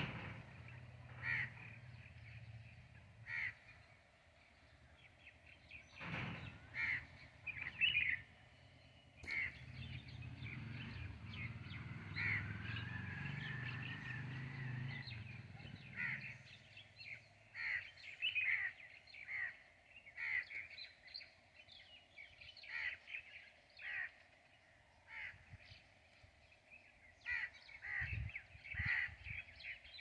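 Birds calling: short, harsh calls repeated irregularly, sometimes several in quick succession, with a low background rumble in the middle for a few seconds.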